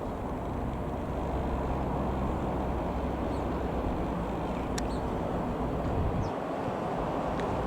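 Reims Cessna F.152's four-cylinder Lycoming piston engine running steadily, with a dip in the sound about six seconds in.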